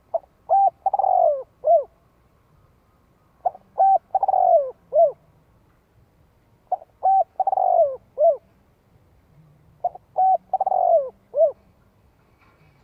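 Spotted dove cooing: four repeated phrases about three seconds apart, each two short coos, a longer coo that falls in pitch, and a short closing coo.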